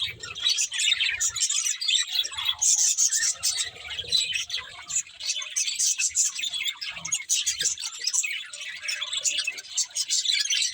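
Budgerigars chirping in a steady stream of quick, high-pitched chirps and twitters, several birds at once.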